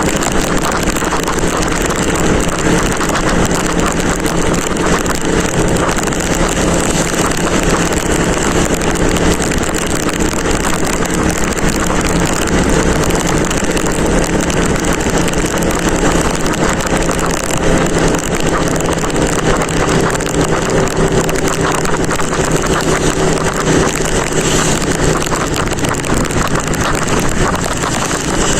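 Motorcycle riding at steady speed: the engine runs with an even tone under a constant rush of wind on the microphone.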